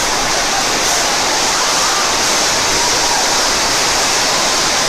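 Heavy storm downpour during a severe hailstorm: a steady, loud rush of falling rain.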